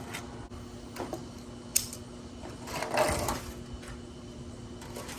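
A few light clicks and a short scrape of handling, over a steady low hum.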